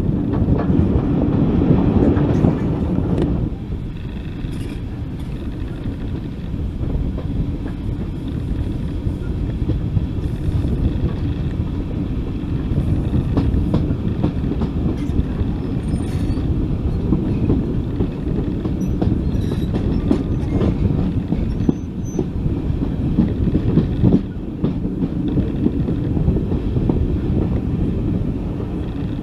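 Train running along the track: a steady low rumble with wheels clicking over the rail joints. It is louder for the first three seconds or so, then settles to a steadier, quieter run.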